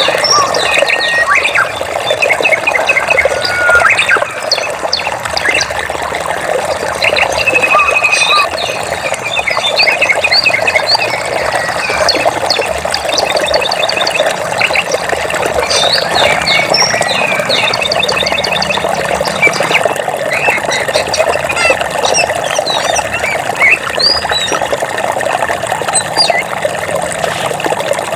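Flowing stream water with many birds chirping and trilling over it, a dense mix of short calls throughout.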